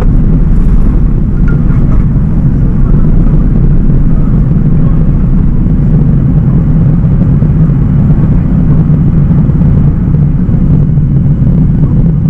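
Cabin noise of a Boeing 737-800 under power: its CFM56-7B turbofans and the airflow make a loud, steady low rumble.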